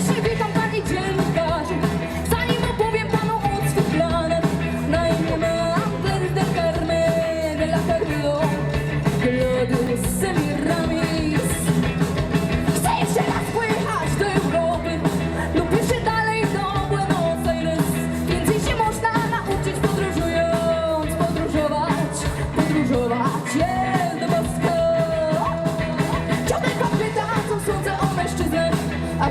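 Live rock band playing a song with a singer, drums, bass and guitars, loud and continuous.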